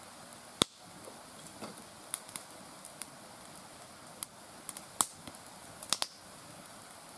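Mixed hardwood burning in a fire pit, crackling with irregular sharp pops over a faint steady hiss; the loudest pops come about half a second in and around five seconds in.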